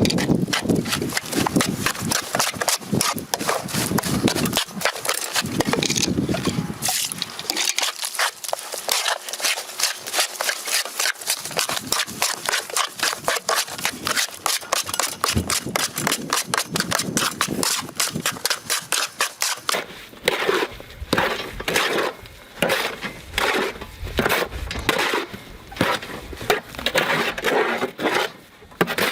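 Mortar and cement being mixed by hand: a tool scrapes and grinds through the gritty mix in quick repeated strokes, which become more distinct near the end.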